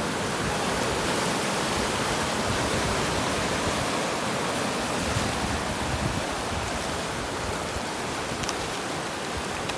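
Fast-flowing river floodwater rushing steadily, the surge of a river in sudden flood.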